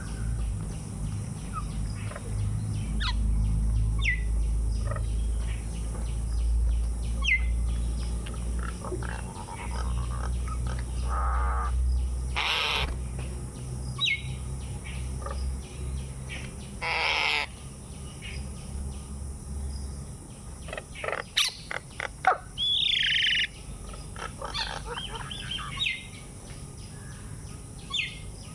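Birds chirping in short, scattered calls, with a few louder calls and one falling call about 23 seconds in, over a low rumble that stops about 20 seconds in.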